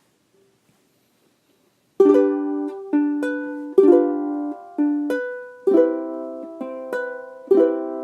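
Ukulele strummed in a slow chord progression, starting about two seconds in after near silence, with a chord struck roughly once a second and each one ringing out and fading before the next.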